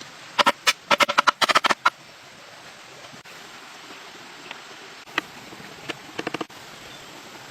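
A quick run of about a dozen sharp, ringing knocks, then a few more near the end, over a steady hiss.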